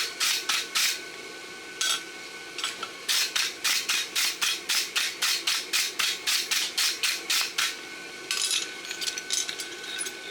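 Wire brush scrubbing back and forth over a freshly rasped steel horseshoe, about four quick strokes a second, in runs broken by short pauses.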